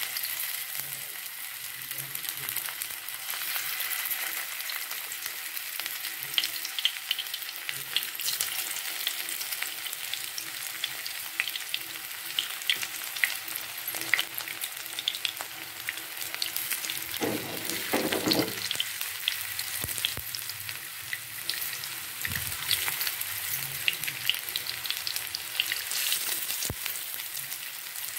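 Batter-coated raw banana slices shallow-frying in oil in a nonstick pan: a steady sizzle with frequent small crackles and pops. A short, lower-pitched noise comes about two-thirds of the way through.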